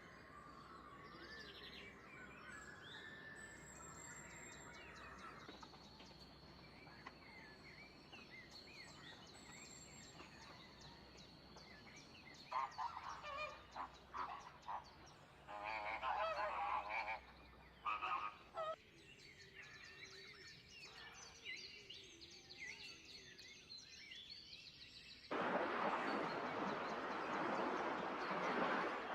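Birds calling, with a run of louder calls about halfway through, then a steady rushing noise near the end.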